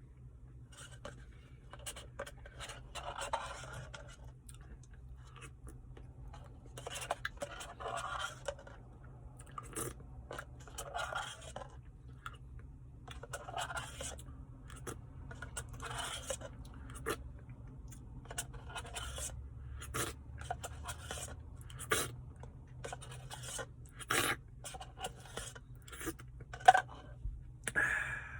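Spoon scraping a cup of a Reese's Blizzard, with chewing. The scrapes come in short scratchy bursts every couple of seconds, mixed with sharp clicks.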